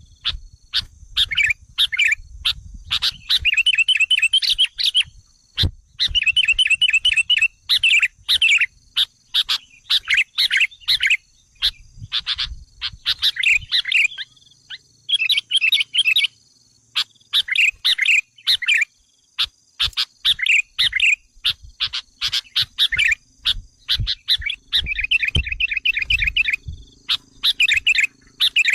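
Sooty-headed bulbuls (kutilang) calling excitedly: short bubbly phrases and fast chattering trills repeated again and again with brief gaps. This is the agitated call used as a lure to provoke wild bulbuls. A faint steady high tone runs underneath.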